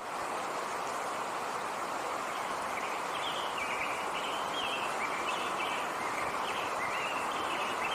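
Small birds chirping in a run of short, high notes, starting about three seconds in, over a steady outdoor hiss.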